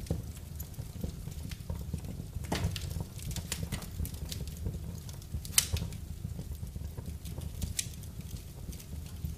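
Wood fire crackling in a fireplace: irregular snaps and pops over a low steady rumble, with one sharp pop about halfway through.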